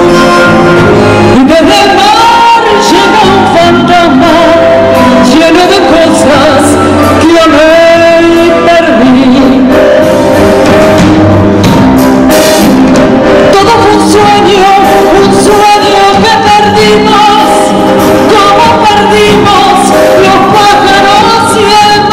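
A woman singing a tango with instrumental accompaniment, performed live.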